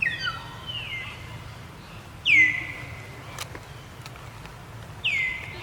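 High-pitched calls from a young macaque: a quick run of falling cries at the start, then two louder cries, one about two seconds in and one near the end. Each cry drops sharply in pitch and then holds.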